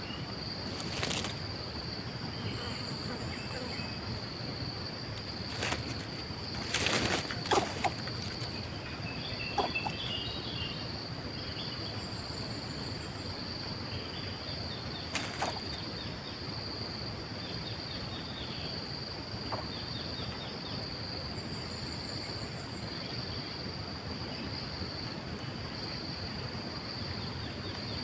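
Outdoor ambience dominated by a steady, high-pitched insect drone. Short bursts of chirping come and go, and a few sharp knocks sound, a cluster of them about seven seconds in.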